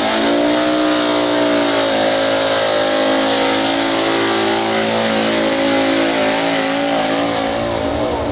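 Hot Stock pulling truck's engine held at high revs under full load during a pull run. It climbs to speed right at the start, then holds a steady pitch that wavers slightly.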